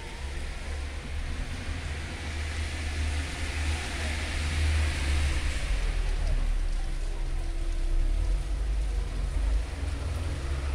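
Rain falling, with a vehicle passing on the wet road: a hiss that swells and fades around the middle, over a steady low rumble.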